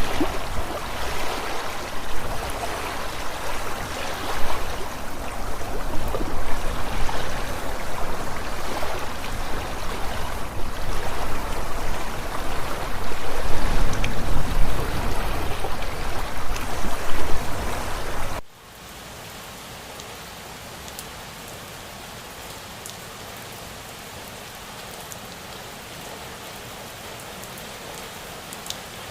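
Running water of a stream, uneven and fairly loud, cuts off suddenly about two-thirds of the way through to a quieter, steady rain hiss with a few faint drop ticks.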